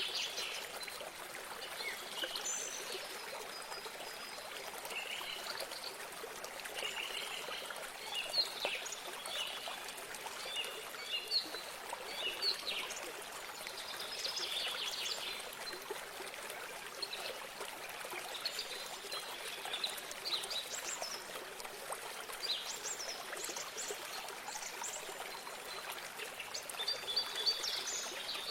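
Small birds chirping and singing in many short, quick phrases over the steady trickle of running water.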